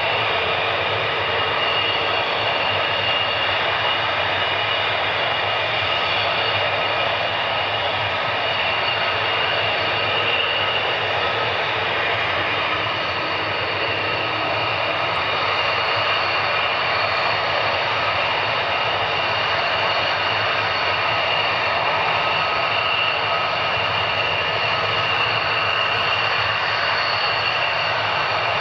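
Fighter jet engine running steadily at high power: continuous jet noise with a steady high-pitched whine that neither rises nor fades.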